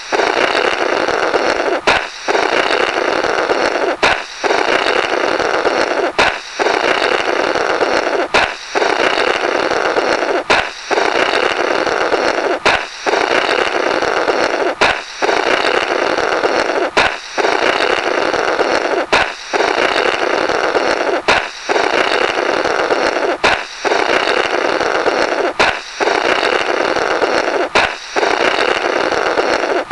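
Balloon pop followed by a long rasping 'Blorrrt' as someone blows through the burst rubber remnants, a comic cartoon-style sound effect. The same pop and blow repeat about every two seconds, each starting with a sharp snap after a brief gap.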